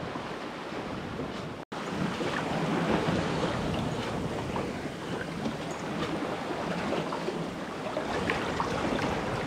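Water rushing and splashing along a sailboat's hull under way at sea, with wind buffeting the microphone. The sound drops out for an instant about two seconds in and comes back a little louder.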